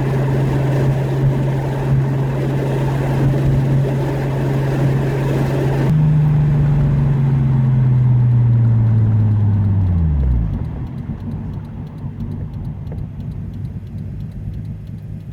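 Nissan RB26DETT inline-six of a single-turbo R32 Skyline GT-R, heard from inside the car, running steadily at part throttle. About six seconds in the throttle is lifted and the hiss above the engine note drops away; a few seconds later the engine note falls in pitch as the revs drop, and it gives way to a quieter low rumble.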